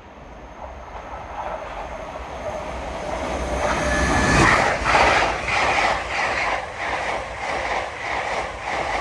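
LNER Azuma Class 801 electric train passing through a station at speed. It is heard approaching and growing louder, loudest about four and a half seconds in, then settles into a regular clatter of wheelsets going by, about three beats every two seconds.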